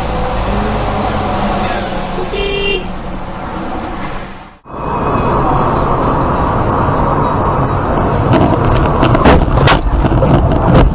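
Car road and engine noise as heard from a dashcam, with a brief car horn toot about two seconds in. After a cut, a louder low rumble of road noise follows, with several sharp knocks near the end.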